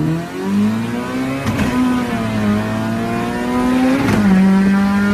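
Car engine under hard acceleration, heard from inside the cabin: the revs climb, drop sharply at an upshift about a second and a half in, climb again and drop at a second upshift about four seconds in.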